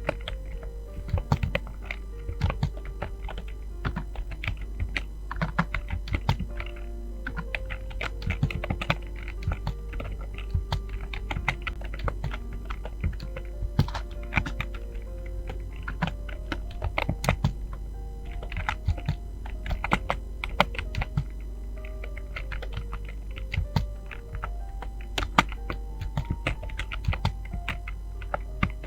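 Fast, uneven typing on a computer keyboard: a dense run of key clicks with no pauses. A simple melody of short held notes plays underneath, with a steady low hum.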